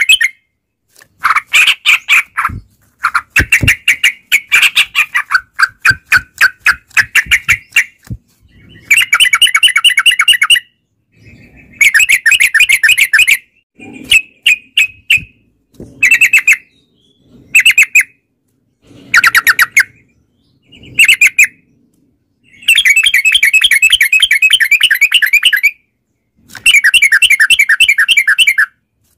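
Yellow-vented bulbul (trucukan) singing vigorously: phrase after phrase of rapid, bubbly chattering notes, each phrase one to three seconds long, separated by short pauses.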